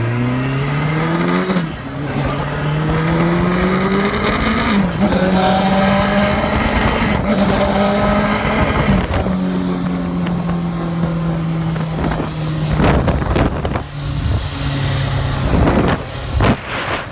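Motorcycle engine accelerating up through the gears, its pitch rising and dropping back at shifts about two and five seconds in, then holding a steady cruise. Wind buffets the microphone in rough gusts near the end.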